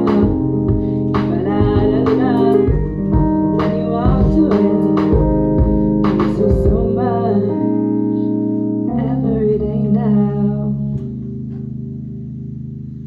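The closing bars of a live acoustic-style song: a singer's wordless vocal lines over sustained accompaniment chords. The song ends on a long held chord that slowly fades.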